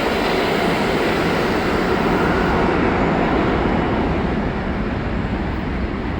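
New York City subway 1 train running along the platform track, a loud steady rumble and rush of wheels and motors, with the hiss thinning from about halfway through and the whole sound easing slightly near the end.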